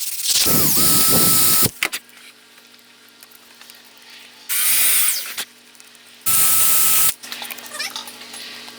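A small handheld power tool triggered three times in short bursts. Each time it spins up quickly to a steady high whine; the first run is the longest, at about a second and a half.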